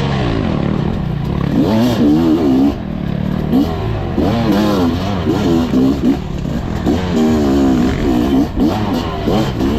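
Fantic XE300 two-stroke dirt bike engine, revved hard and then dropped again and again in quick bursts as the bike is ridden through tight trail.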